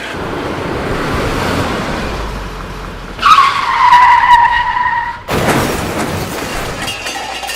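Car engine running with a rushing noise, then a loud tyre squeal about three seconds in that falls slightly in pitch and lasts about two seconds.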